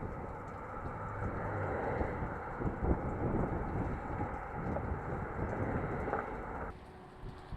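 Outdoor wind buffeting the microphone as an irregular low rumble, cutting off suddenly near the end.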